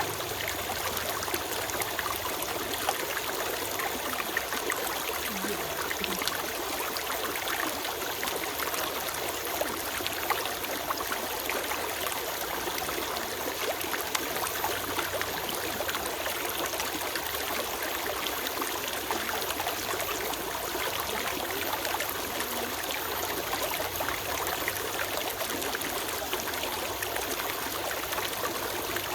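Forest stream flowing and trickling, a steady rush of running water with small splashes.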